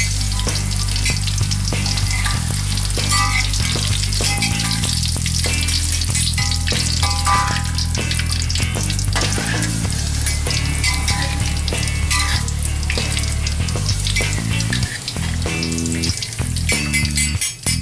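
French fries sizzling in hot oil as they are lifted and drained with a metal perforated ladle, the frying hiss steady throughout. A music track with a stepping bass line plays underneath.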